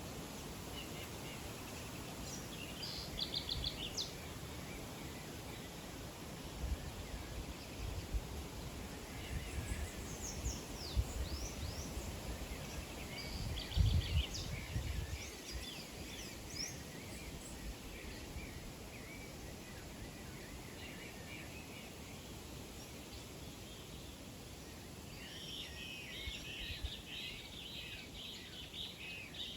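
Small birds chirping and trilling in short bursts, building to a busy flurry of overlapping chirps near the end, over a steady background hiss with a few low thumps in the middle.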